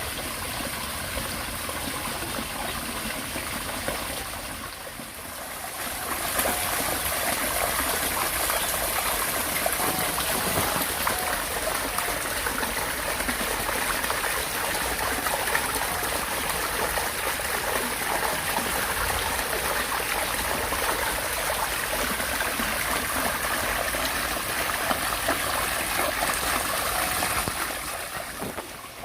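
Steady rush of running water, trickling and splashing without a break, louder from about six seconds in.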